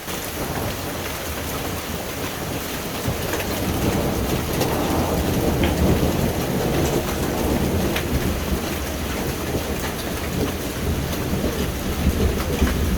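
Hail and rain falling steadily, with scattered sharp ticks of hailstones striking. A long, deep rumble of thunder builds from about three seconds in and rolls on through the rest.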